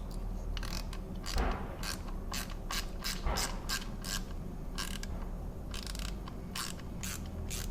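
Socket ratchet wrench clicking as it tightens the 8mm bolts on the oil filter cover of a Kawasaki KLX110 dirt bike, a steady run of clicks roughly three a second.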